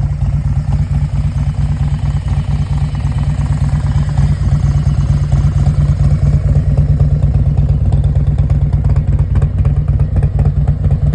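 2018 Harley-Davidson Road Glide Special's Milwaukee-Eight 107 V-twin running steadily at a low speed through an aftermarket 2-into-1 exhaust, a deep, even pulsing.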